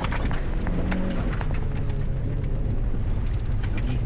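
Rally car's engine heard from inside the cabin, running at low, fairly steady revs as the car goes slowly through a tight hairpin, with scattered sharp clicks of gravel striking the underbody.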